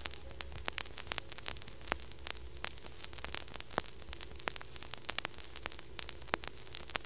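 Crackling static: many irregular sharp clicks over a steady low hum and faint hiss, with no music playing.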